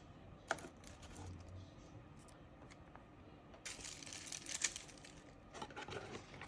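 Faint rustling with light clicks and taps as food is handled, and two short spells of louder rustling in the second half.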